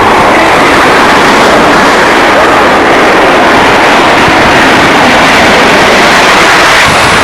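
Loud, steady jet noise from a military fighter flying past, dense enough to overload the microphone.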